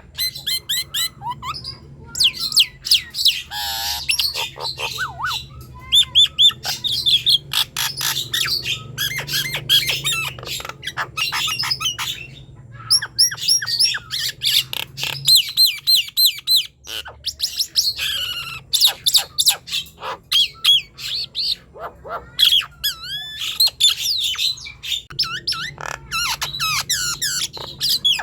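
Nias hill myna singing: a rapid, varied stream of loud whistles, chirps and squawks, with rising and falling swept notes and only brief breaks, over a faint steady low hum.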